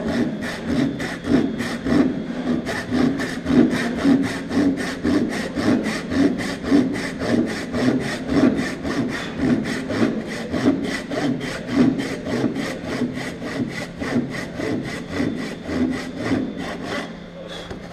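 Hand saw cutting through wood in steady back-and-forth strokes as it angles down a tenon at about 45 degrees, running in a kerf cut earlier and working down to the marked line. The strokes grow quieter over the last few seconds and stop just before the end.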